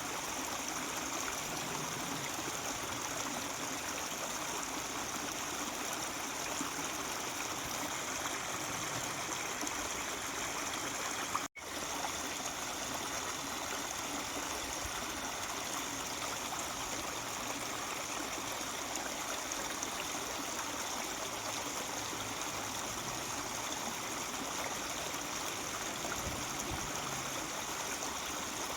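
Mountain stream babbling steadily, with one momentary gap about a third of the way through.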